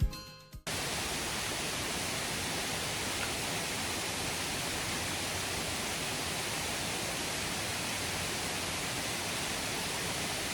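Steady rush of a waterfall, cutting in abruptly under a second in as the tail of a piece of music dies away.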